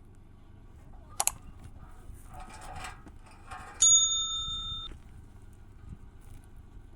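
A metal object struck once, giving a bright ringing tone that fades over about a second. Before it come a sharp double click and some scraping.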